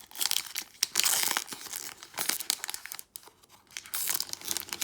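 Foil Pokémon booster pack being torn open and its wrapper crinkled, with crackling, papery rustles that come in two louder spells, about a second in and near the end.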